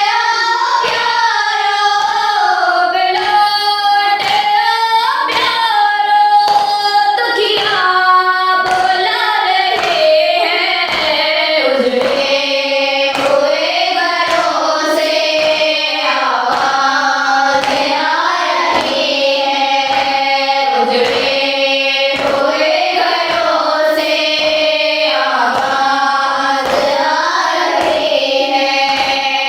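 A noha, an Urdu mourning lament, sung by voices over a steady beat of chest-beating (matam) strokes, about one a second.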